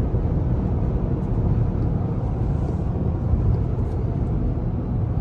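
Inside the cab of a Rivian R1T electric pickup at highway speed: steady tyre noise from the road with wind noise over it, a low rumble and a fainter hiss.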